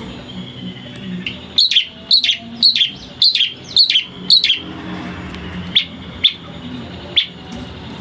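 Long-tailed shrike (cendet) calling: a run of six sharp, falling notes about two a second, then three more spaced out, over a steady low hum.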